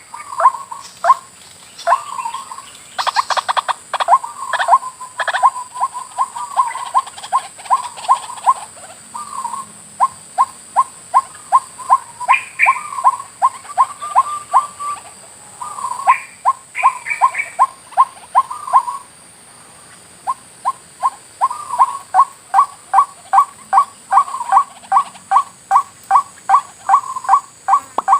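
White-breasted waterhen calling: short, loud notes repeated about three times a second in long runs, broken by a few brief pauses, with a few higher-pitched notes mixed in.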